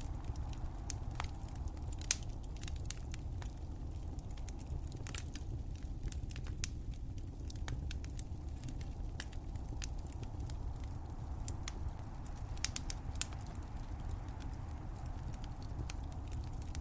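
Fireplace fire crackling: irregular sharp pops and snaps over a steady low rumble of the burning flames.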